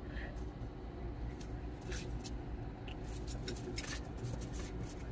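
A steady low hum with scattered light clicks and rustles over it.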